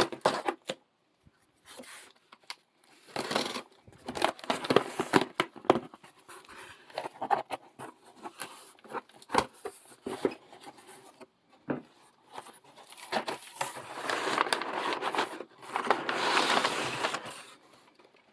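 Cardboard and paper packaging being opened and handled by hand: irregular taps, scrapes and tearing, then a longer stretch of paper crinkling about three quarters of the way through.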